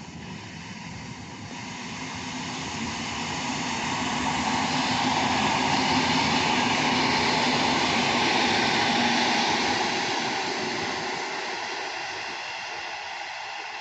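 A train passing: a rushing rumble of wheels on rail that builds over about five seconds, stays loud for several seconds, then fades away.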